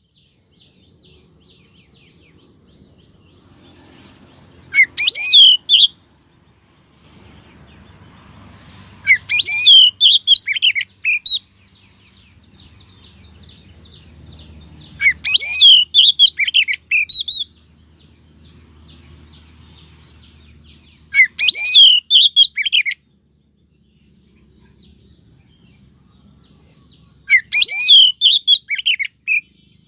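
Female oriental magpie-robin (kacer) calling: five loud bursts of quick, high chirps and whistles, each one to two seconds long, repeated about every six seconds. It is a female's sweet call used as a lure to attract males.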